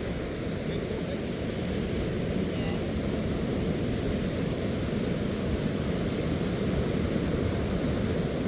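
Steady low rushing rumble of outdoor noise, with no distinct events, and no change in level.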